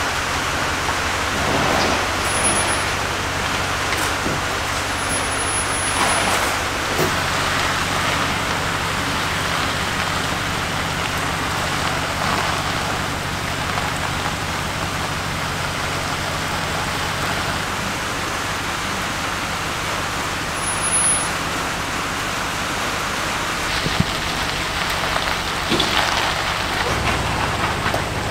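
Jeep engine idling steadily under falling rain, with a couple of sharp knocks near the end.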